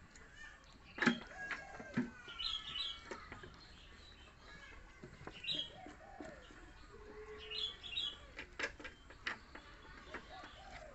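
Birds chirping in short high bursts, with a few sharp clicks and smacks, the loudest about a second in.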